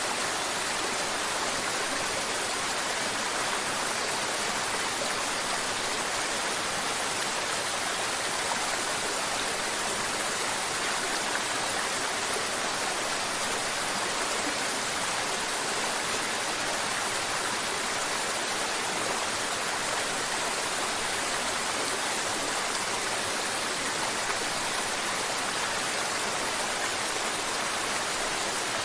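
Mountain river water flowing and babbling over rocks, a steady even rush with no breaks.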